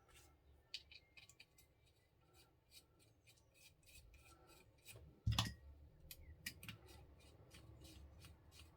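Quiet small clicks and scrapes of RC kit parts being fitted and fastened by hand, with one louder knock about five seconds in.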